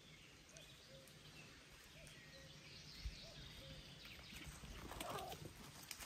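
Near silence with faint, repeated distant bird calls, and a brief louder sound a little after five seconds.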